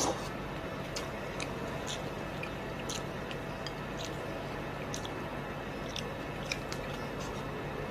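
A person eating beef oxtail soup, mouth close to the microphone: chewing with short, wet mouth clicks a few times a second, over a steady background hum.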